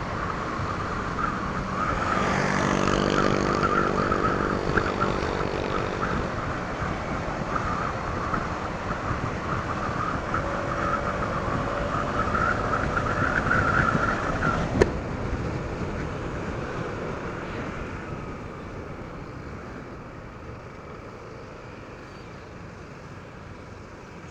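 Honda ADV 160 scooter's single-cylinder engine running through its stock exhaust while riding, with wind and road noise. There is one sharp click about 15 seconds in, after which the engine and wind noise die down over the last several seconds.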